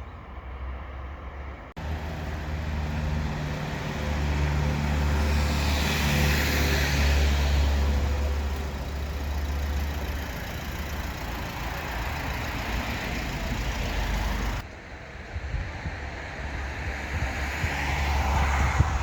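Street traffic: a motor vehicle's engine running close by with a steady low hum, its noise swelling about six seconds in and dropping away suddenly about fourteen seconds in.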